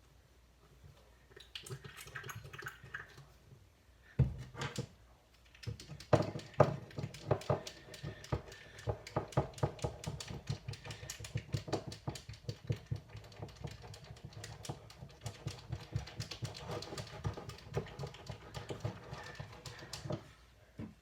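Slime being squished and kneaded by hand: a dense, uneven run of sticky clicks and pops with low thumps, starting a few seconds in and stopping just before the end.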